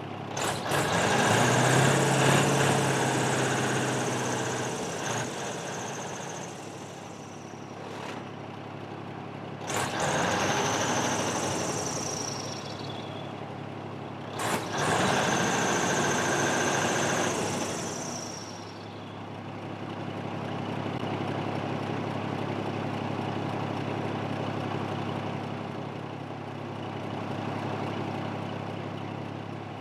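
A large engine running steadily, revved hard three times, with a high whine that rises with each surge and falls away as it dies down.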